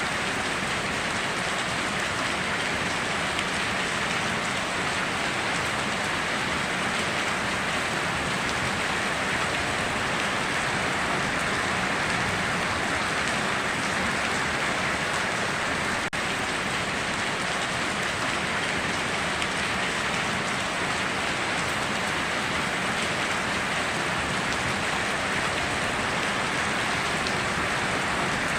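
Steady, heavy rainforest rain falling, an even dense hiss of drops with no let-up. A brief click-like break in it about halfway through.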